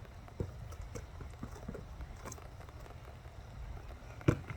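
Basketball being dribbled on a wet outdoor court: faint, uneven thumps, with two louder bounces near the end.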